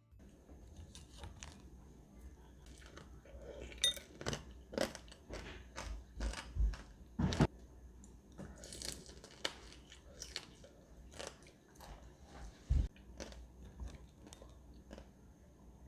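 Strawberry tanghulu being bitten and chewed: the hardened sugar-candy shell cracks and crunches in irregular bites, the loudest about four, seven and thirteen seconds in.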